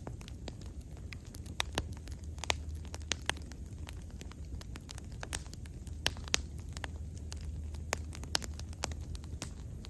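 Wood bonfire burning, with sharp, irregular crackles and pops over a steady low rumble of the flames.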